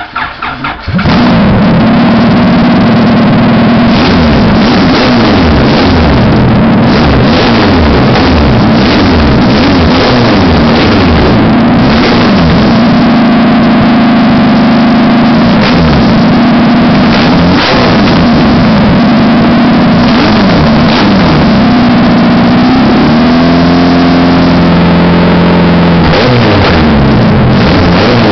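Honda H23 four-cylinder engine cranking briefly and catching on its first start after an H2B swap, then running loud with the engine speed rising and falling. The recording is overloaded.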